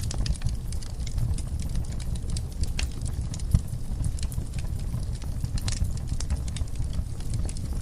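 Wood fire burning in a fireplace, with a steady low rumble and scattered crackles from the burning logs, one sharper pop about three and a half seconds in.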